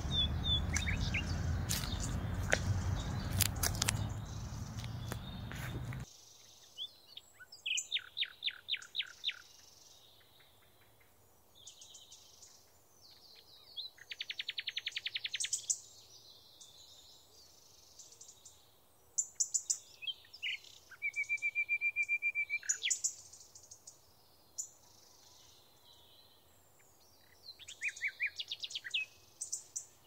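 Small songbirds chirping and trilling, with runs of rapid repeated notes and one held whistled note near the middle. For the first few seconds a steady outdoor background noise runs under the chirps, then it stops abruptly and the birdsong goes on over near quiet.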